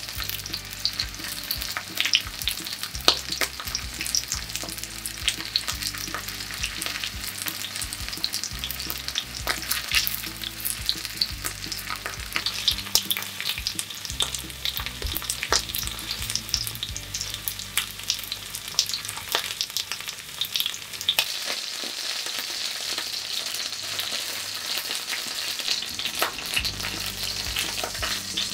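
Oil sizzling and crackling around starch-coated chunks of chicken breast and deep-fried tofu shallow-frying in an iron pan, with sharp clicks of chopsticks knocking the pan as the pieces are turned.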